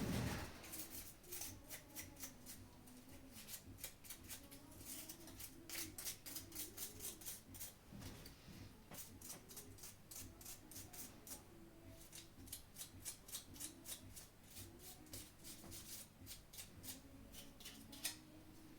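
Runs of small sharp clicks, several a second, with light rubbing: hands working the plastic parts of a DualSense controller.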